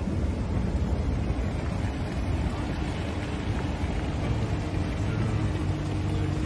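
A car running: a steady low rumble with a faint steady hum over it, heard from inside a car.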